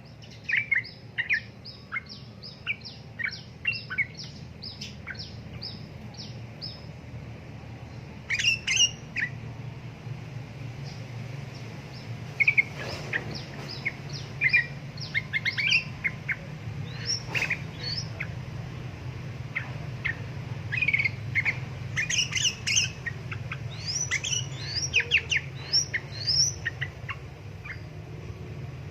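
Trucukan (yellow-vented bulbul) song: a run of quick, evenly repeated notes, then bubbly chattering phrases and trills. A steady low hum runs underneath.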